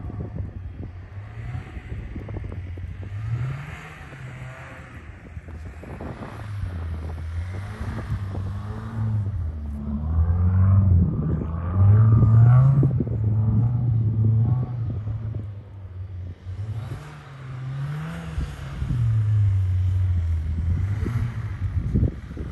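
Subaru WRX's turbocharged flat-four engine revving up and down again and again as the car drifts on snow, its pitch rising and falling several times, loudest about halfway through.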